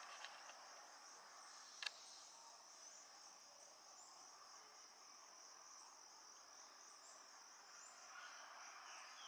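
Faint, steady high-pitched insect trilling that runs on without a break, with a single sharp click about two seconds in.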